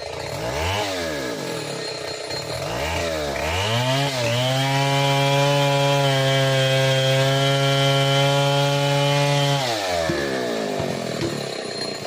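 Stihl 070 two-stroke chainsaw revved twice briefly, then held at full throttle for about five seconds before dropping back to idle.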